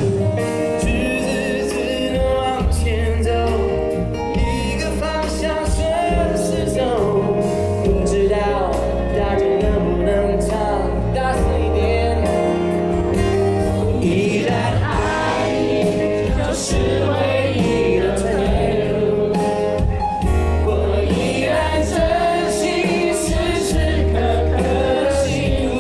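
A Mandopop ballad performed live: a singer with full band accompaniment, with a steady beat and bass under the vocal line.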